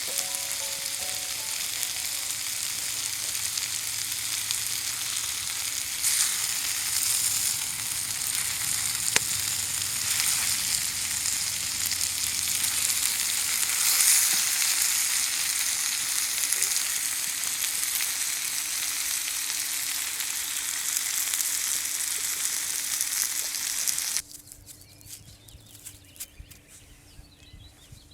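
Food frying with a steady sizzle that cuts off suddenly near the end, leaving only a few faint light ticks.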